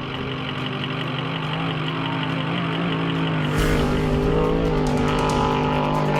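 Off-road race truck engine running at speed and growing louder as it approaches. A little past halfway there is a sudden rush of noise as it comes close, and the engine pitch wavers and rises.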